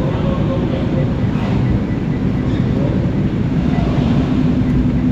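Loud, steady engine rumble with a constant low hum, heard on a car ferry's vehicle deck while cars are being parked.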